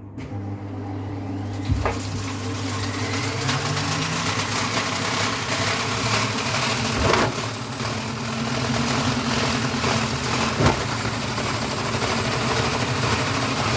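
Vestel washing machine running an unbalanced service-mode spin with water in the drum: a steady motor hum under rushing, splashing water that builds up over the first second, with a few sharp knocks.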